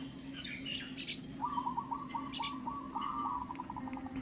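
Common mynahs calling: a few short, harsh high chirps, then a fast run of repeated notes at about four or five a second. A steady low hum runs underneath.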